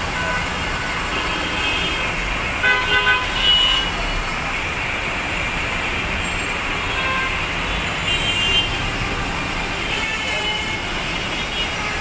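Steady hiss of heavy rain mixed with city road traffic, with short vehicle-horn toots about three seconds in and again near eight seconds.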